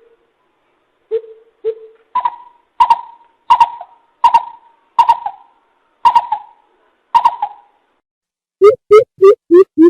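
Coucal giving its hooting call: two low hoots, then a slower series of about seven louder, higher hoots, then a quicker run of low hoots near the end.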